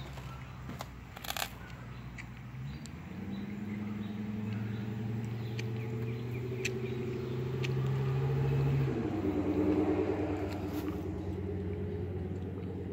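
A car engine running with a steady hum; its pitch steps up about three seconds in and drops back down about nine seconds in. A few light clicks and knocks are heard over it.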